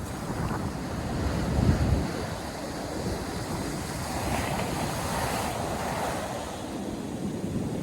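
Ocean surf washing onto a beach, with wind buffeting the microphone in a loud low gust about two seconds in.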